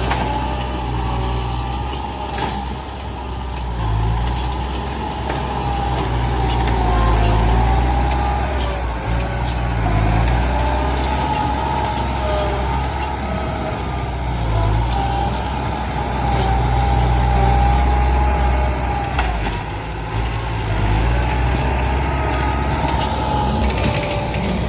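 Heavy truck's diesel engine running, its revs rising and falling again and again, with a wavering whine over a low rumble.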